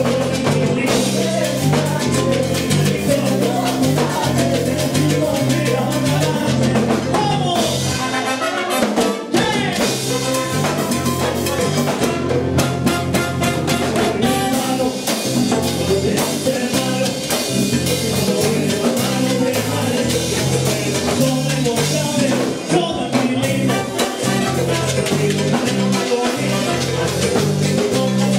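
Salsa orchestra playing an up-tempo number, with a stepping bass line, drums and percussion. The bass drops out for a short break about nine seconds in.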